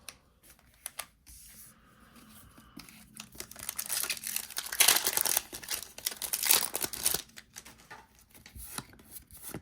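Foil wrapper of a Pokémon Crown Zenith booster pack being torn open and crinkled. There is a dense crackling tear in the middle, loudest about five seconds in, with light handling clicks before and after.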